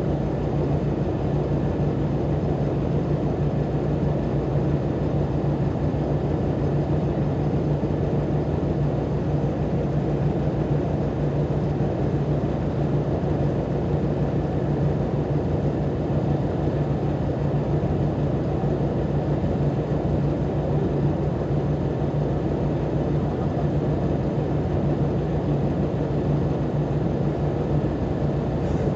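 Diesel engine of a Volkswagen Volksbus 18-280 OT LE city bus running steadily, a constant low drone that holds the same pitch throughout.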